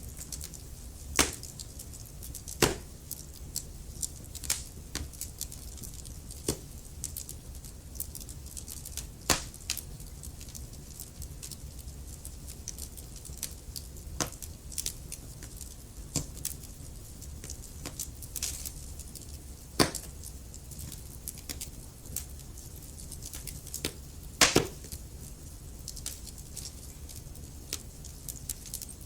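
Wood fire crackling and popping in a fireplace: irregular sharp snaps over a low steady rumble of the flames, with louder pops about a second in, near 20 seconds and near 25 seconds.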